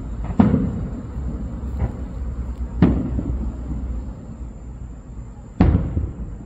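Aerial firework shells bursting: three loud booms, just after the start, about halfway through and near the end, each with an echoing tail, and a fainter bang between the first two.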